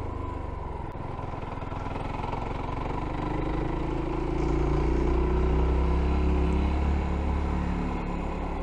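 F.B Mondial Pagani 300 motorcycle engine running while riding. The revs rise and the engine gets louder about halfway through, then ease off again near the end.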